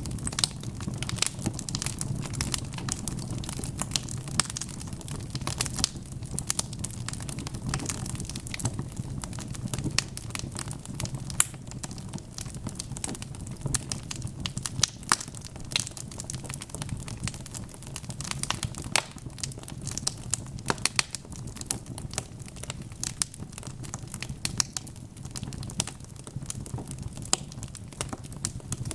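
Wood fire burning in a fireplace, with a steady low rumble and irregular crackles and sharp pops from the logs.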